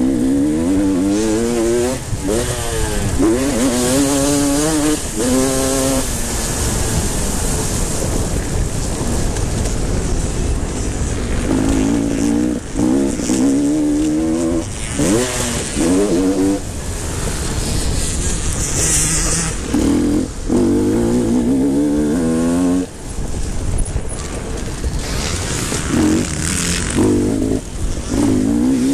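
Motocross bikes racing on the track, engines revving hard again and again: each time the pitch climbs and then drops sharply at a gear change or throttle-off, with several bikes overlapping.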